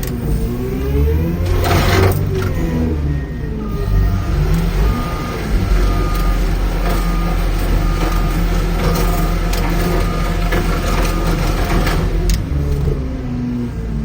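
Heavy machinery at a car crusher running loudly, its engine revving up and down, with sharp crunching crashes of metal about two seconds in and again near the end. A reversing alarm beeps repeatedly through the middle.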